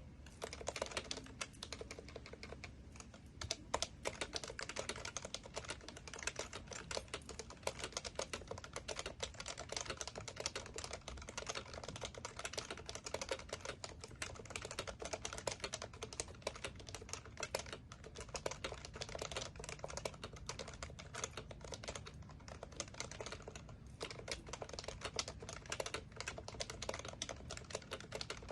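Rapid, continuous typing on an HHKB Professional Classic keyboard, its tactile Topre capacitive keys clacking in quick runs with a few brief pauses.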